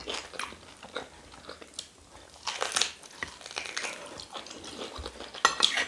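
Two people chewing and biting mouthfuls of rice and beans, close mouth sounds of scattered clicks and smacks. Louder stretches come about two and a half seconds in and again near the end.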